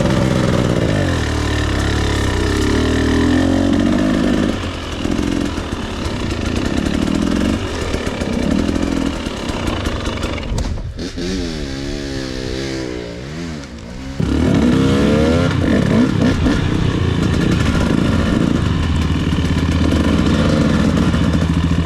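Two-stroke dirt bike engine running hard on a trail, its revs rising and falling with the throttle. For a few seconds past the middle it goes quieter and the revs swing quickly up and down, then it comes back loud.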